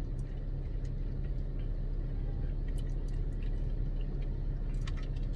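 Steady low hum of an idling car engine heard from inside the car, with a few faint clicks.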